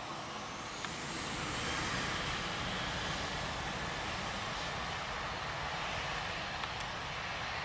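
Jet airliner engines passing close by: a steady rush of noise with a high whine that rises over the first couple of seconds.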